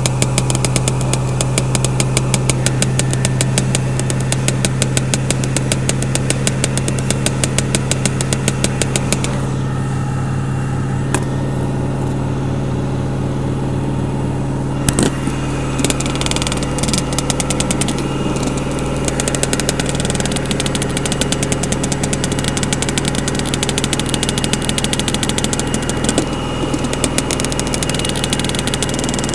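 LG washing machine in its final spin: a steady motor hum with a fast, even rattle from the spinning drum. The rattle eases for a few seconds near the middle, then returns.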